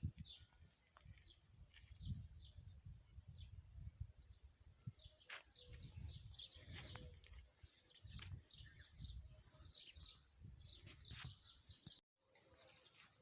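Small birds chirping, faint and frequent short high calls, over an uneven low rumble. The audio cuts out briefly near the end.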